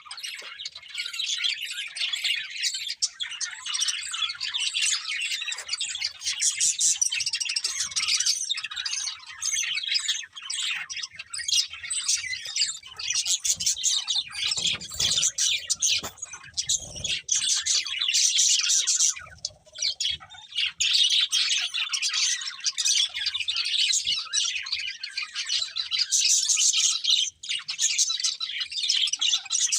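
Budgerigars chirping and warbling in a dense, continuous chatter, with a few soft low thumps about halfway through.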